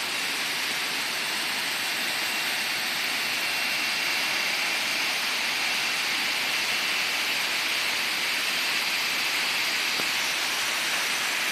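Waterfall's water rushing in a steady, even roar of white water.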